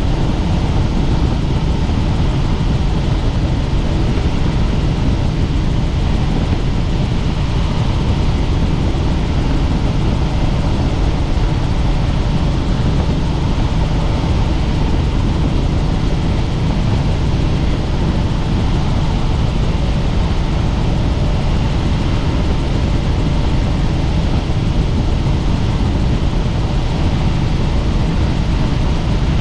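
Helicopter in flight: steady, loud rotor and engine noise, heaviest in the low range, with no change in pitch or level.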